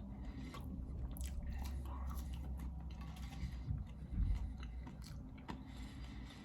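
Close-miked chewing of a mouthful of food, with scattered wet mouth clicks and small crunches over a steady low hum.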